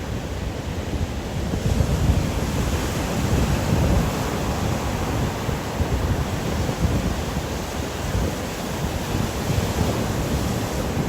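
Ocean surf and wind: a steady rush of waves with wind rumbling on the microphone, growing a little brighter about two seconds in.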